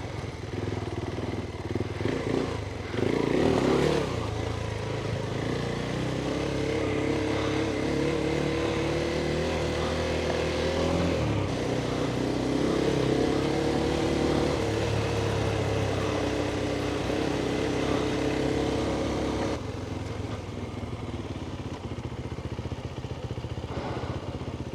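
Adventure motorcycle engine running at low revs, its pitch rising and falling as the throttle is worked, with a louder burst about three seconds in. The engine note drops away about twenty seconds in.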